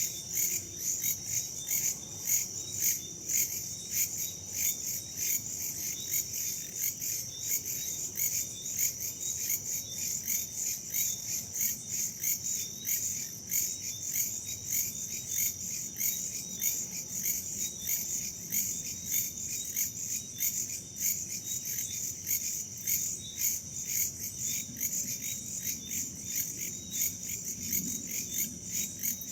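Crickets chirping in a steady, even, rapid pulse, a high-pitched night-forest insect chorus.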